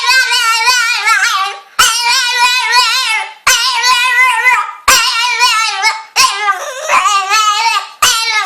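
A dog whining in about six long, high-pitched, wavering cries, one after another with short breaks. It is begging to be lifted onto a bed it cannot reach.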